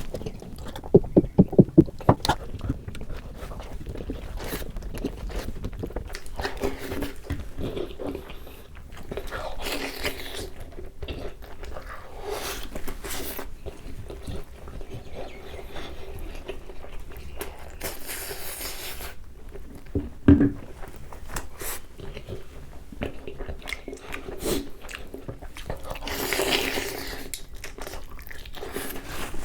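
A person biting into and chewing turkey wings, with many small mouth clicks and crunches. A quick run of loud knocks comes about a second in, and a single loud thump about twenty seconds in.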